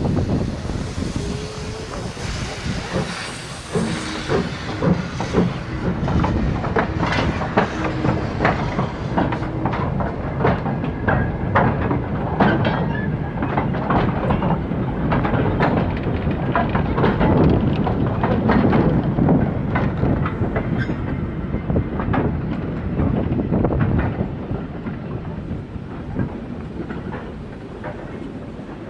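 Train running along the line, its wheels clicking and clacking over the rail joints with a steady rumble, fading somewhat near the end.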